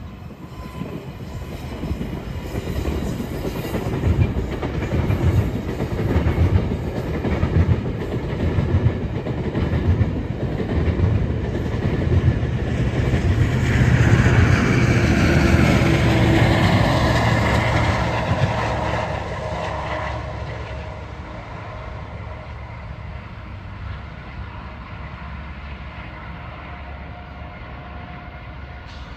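GO Transit commuter train passing, its wheels clicking over the rail joints. It builds to its loudest about halfway through, then fades away.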